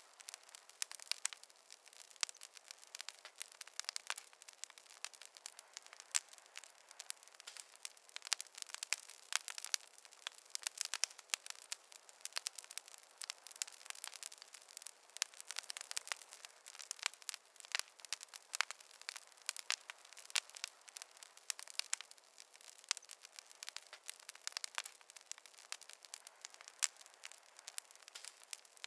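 Wood fire crackling in a fireplace: dense, irregular sharp pops and snaps, several a second, over a faint hiss.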